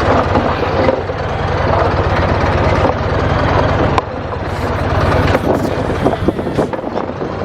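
Motorcycle engine running at road speed under a steady rush of noise, with an abrupt change about four seconds in.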